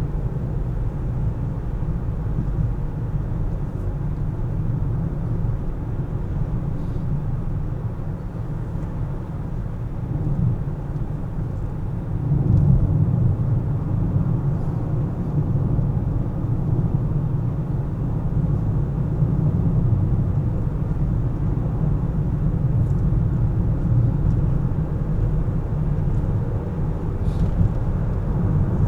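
A car driving in traffic: a steady low rumble of road and engine noise that gets louder about twelve seconds in.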